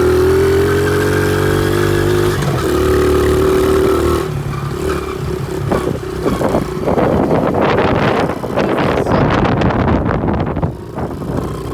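Pit bike engine running at a steady speed, then a rough, uneven stretch of noise with many short knocks from about six seconds in.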